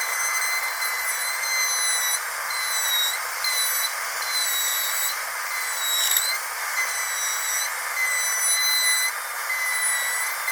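Dentist drill running with a steady high-pitched whine over a hiss. Its pitch dips briefly several times, about three, five, six and ten seconds in.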